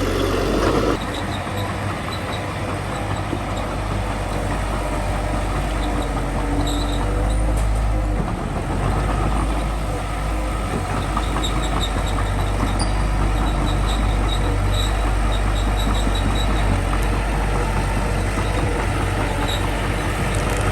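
Small crawler bulldozer's diesel engine running steadily, louder for about the first second, with faint ticking over the hum.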